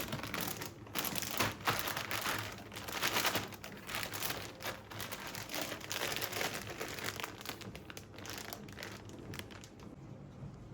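Irregular crinkling and rustling of something being handled, busy at first and dying down near the end.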